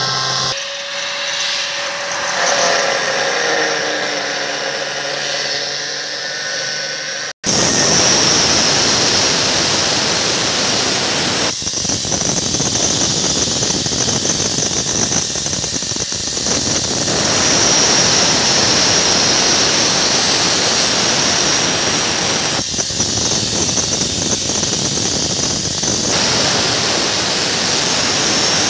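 Angle grinder cutting through metal, with a high steady whine over the grinding noise, to cut off a washing machine gearbox part whose retaining nut has broken. It is lighter for the first several seconds, breaks off for a moment about seven seconds in, then cuts on louder.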